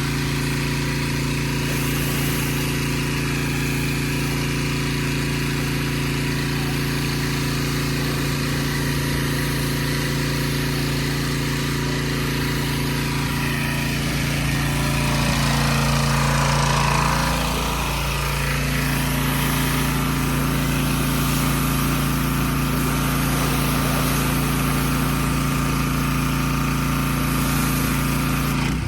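An engine running steadily, swelling briefly a little past halfway through before settling back.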